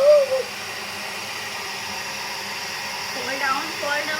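Handheld hair dryer running steadily, a constant rushing hiss of air with a faint hum underneath.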